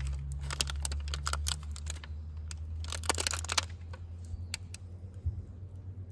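Wood fire crackling in a fire pit: scattered sharp pops and snaps, with a quick flurry of them about three seconds in, over a low rumble.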